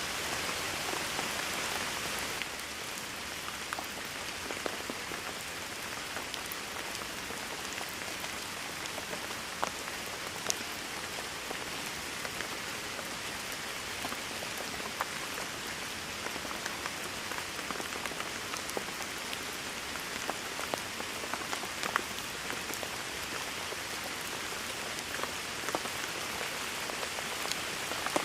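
Steady rain falling, a constant hiss with many individual drops ticking sharply on a hard surface. The rain eases slightly about two seconds in and then holds steady.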